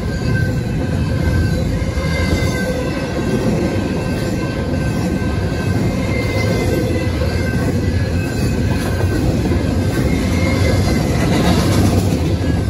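Loaded double-stack intermodal well cars rolling past on jointless track, a steady rumble of steel wheels on rail with faint high wheel-squeal tones drifting in and out.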